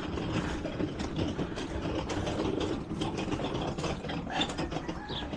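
Steady mechanical rattling and clicking, many small clicks in quick succession.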